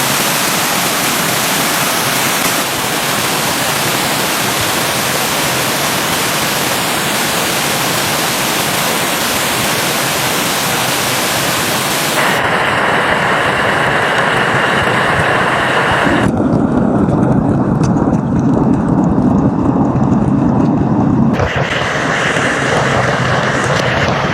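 Loud, steady rush of stream water, a noisy hiss with no pitch. It changes abruptly several times, turning narrower and then into a low rumble for a few seconds around the middle before opening out again.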